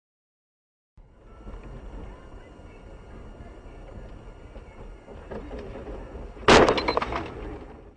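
Dash-camera audio of a car on the road: a steady low rumble of driving, broken near the end by a sudden loud bang of a collision, followed by a quick run of cracks and rattles that fade within about a second.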